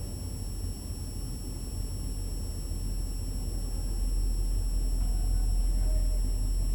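Low, steady rumble of a truck engine, growing louder over the second half, with a faint steady high-pitched whine above it.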